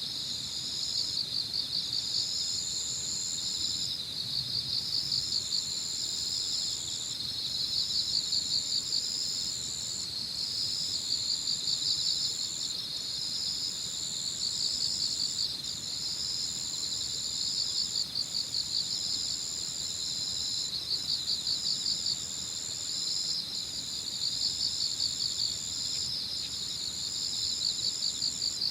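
Chorus of singing insects (crickets and the like) at dusk: one sings a high, steady trill in long stretches broken by short gaps, while another gives a fast pulsing chirp a little lower in pitch, in repeated phrases.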